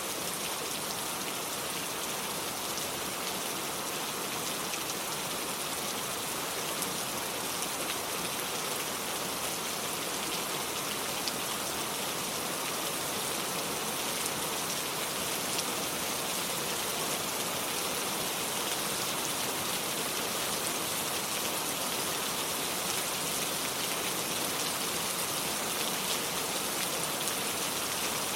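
Steady rain falling, a dense even hiss with many small drop ticks. It sounds the same throughout.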